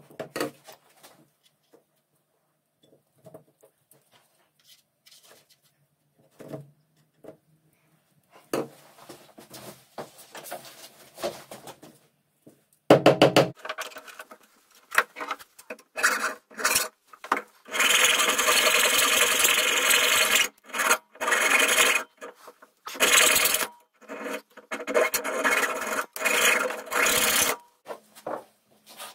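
Hand file rubbing back and forth on wood in strokes. Scattered light taps and scrapes come first, then from about halfway through the strokes are loud and come in runs, nearly unbroken for a couple of seconds.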